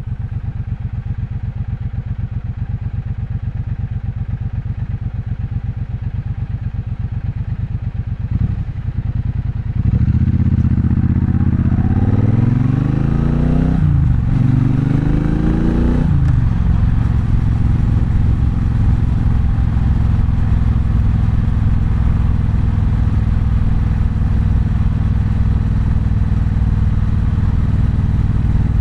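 Triumph Bonneville Bobber's 1200 cc parallel-twin idling with a steady, even pulse. About ten seconds in, the bike pulls away and gets louder, accelerating up through the gears: the pitch rises in each gear and drops back at each shift. It then settles into a steady cruise.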